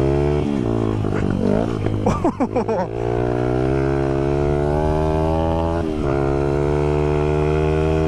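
Honda CRF100 dirt bike's single-cylinder four-stroke engine running under load on a trail ride, its pitch climbing slowly and dipping briefly about half a second in and again about six seconds in as gears are changed. Around two seconds in the engine note wavers up and down rapidly for about a second.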